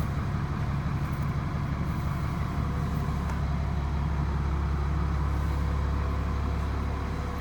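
School bus diesel engine idling, a steady low hum that holds an even pitch.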